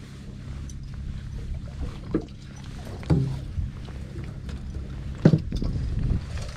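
Low steady hum of a fishing boat's engine, with a few sharp knocks, the loudest about five seconds in.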